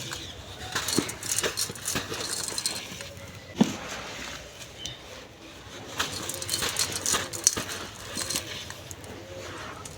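Soft golden sand crumbling and being crushed on a clay pot: a continuous run of crisp crackles and small clicks, with one sharper knock about three and a half seconds in.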